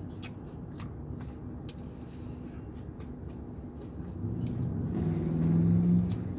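A man chewing a mouthful of biscuit sandwich with his mouth closed, small wet clicks over a steady low rumble. About four seconds in he gives a long closed-mouth 'mmm' hum, lasting about two seconds.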